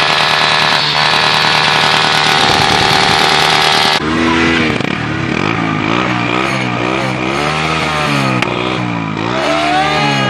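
A Suzuki Gixxer SF's single-cylinder engine runs at a steady pitch through its exhaust. About four seconds in it cuts off abruptly and a TVS Apache RTR's exhaust takes over, revved again and again, its pitch rising and falling with each blip of the throttle.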